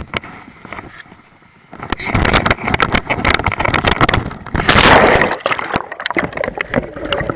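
Water splashing and sloshing over a cheap action camera in a swimming pool, with many knocks. It starts about two seconds in after a quieter start with a few clicks, and is loudest around the middle.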